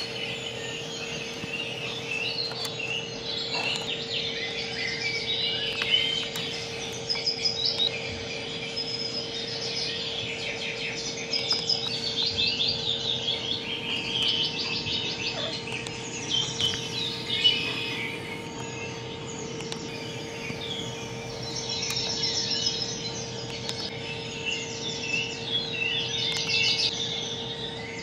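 Small birds chirping, many overlapping calls and short rapid trills, over a steady low hum.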